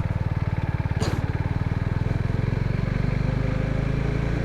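Suzuki Gixxer 250's single-cylinder engine running at low speed under way, its exhaust pulses distinct, then smoothing out a little near the end. A brief hiss comes about a second in.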